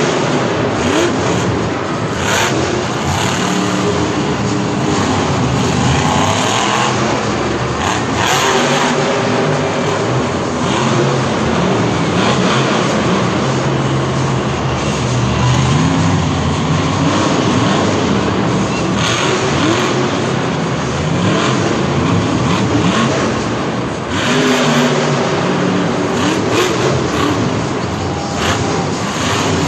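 Monster truck engines running and revving hard, loud and without a break, the pitch rising and falling as the throttle opens and closes.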